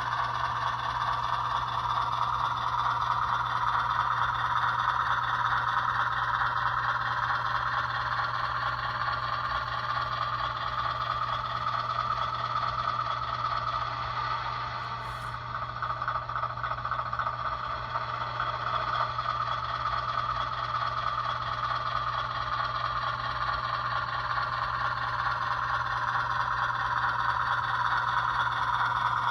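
HO scale model 44-tonner diesel switcher running along the layout's track with a continuous mechanical running sound that slowly rises and falls in pitch, easing off briefly about halfway through.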